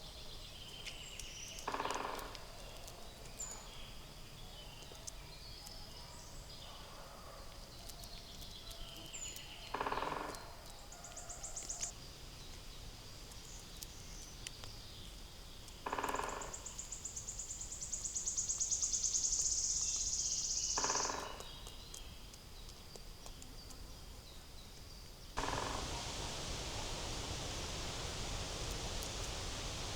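Wild forest birds calling over quiet woodland ambience: four short, harsh calls several seconds apart, thin high chirps, and a fast high trill lasting a few seconds in the second half. Near the end a louder steady background noise sets in.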